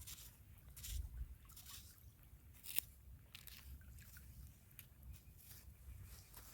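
Faint, irregular crunching on wet sand and gravel, a short crunch every half second to a second, over a steady low rumble.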